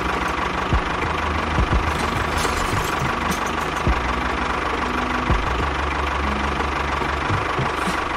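Tractor engine running steadily: a low hum under a wash of noise, with a few sharp knocks at uneven intervals.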